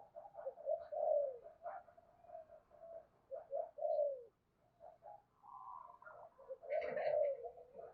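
Spotted doves cooing: a run of short low coos mixed with longer notes that slide downward in pitch, with a higher, brighter call a little after the middle.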